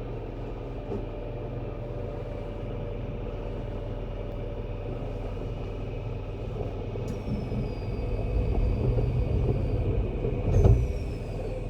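Keisei 3700 series electric train with Toyo GTO-VVVF inverter, heard from inside the car: a steady running rumble that grows louder in the second half. High thin whines start suddenly and glide downward twice, about seven seconds in and near the end.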